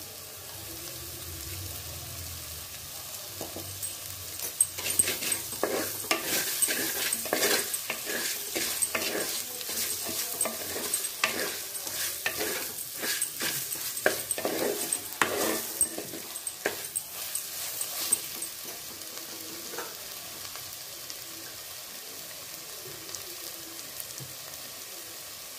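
Onion-tomato masala with chili powder and rock salt sizzling in a clay pot as a wooden spatula stirs it. The spatula scrapes and knocks against the pot in quick strokes from a few seconds in until about two-thirds through, after which only the steady sizzle remains.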